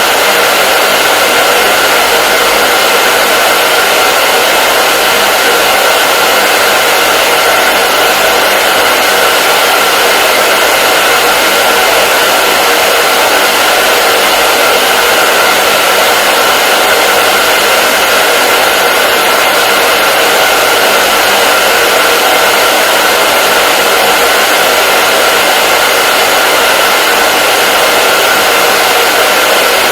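Hair dryer running steadily, a loud even rushing of air with a faint steady whine from the motor.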